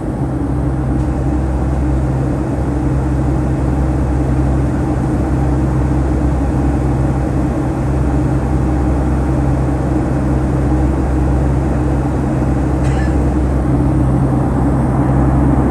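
Steady cabin noise of a Boeing 757-200 climbing after takeoff: a constant low rumble and rush of engines and airflow heard from inside the cabin.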